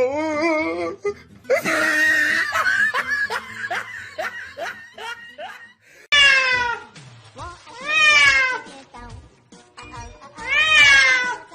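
A domestic cat meowing repeatedly. Shorter wavering cries come first, then three long, loud falling meows about two seconds apart in the second half, over background music.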